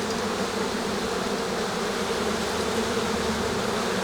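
Honey bees buzzing steadily in a mass around an open hive, a dense even hum.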